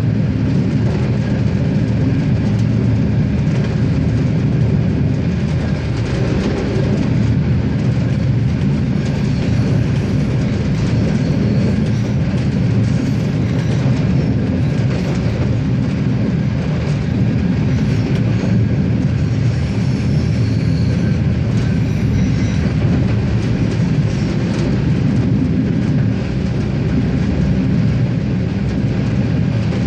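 RegioSprinter diesel railcar running along the line: a steady, unbroken rumble of the moving train and its wheels on the rails.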